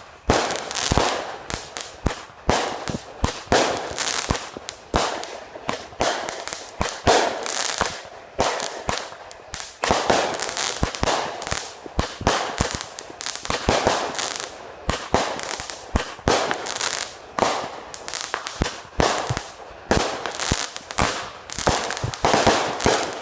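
Consumer fireworks firing a dense, continuous volley of sharp bangs and crackling bursts, several shots a second without letting up.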